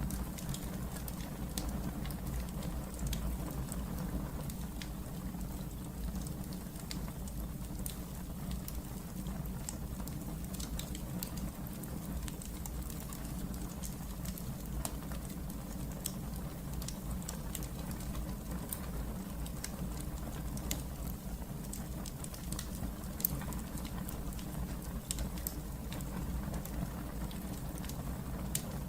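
Wood fire in a fireplace burning with a steady low rumble and scattered small crackles and pops, one sharper pop about 23 seconds in.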